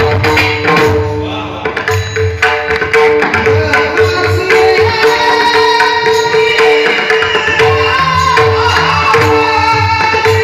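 Indian devotional music: pakhawaj drum strokes over a steady held drone, with a voice singing in the second half.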